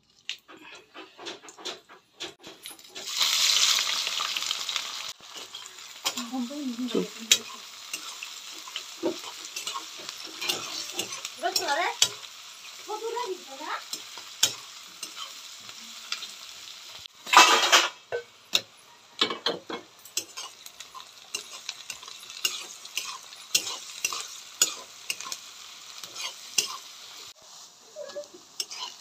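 Hot oil sizzling in an aluminium kadai as onions and chillies fry, with a loud burst of sizzle about three seconds in as they go into the oil, and another a little past halfway. Throughout, a metal spatula taps and scrapes against the pan as the onions are stirred.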